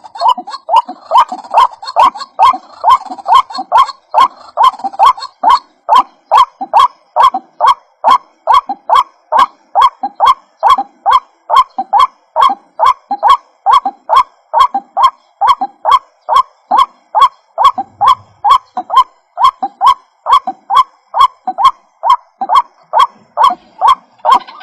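White-breasted waterhen (ruak-ruak) giving its repeated croaking call, about two calls a second in an even, unbroken run.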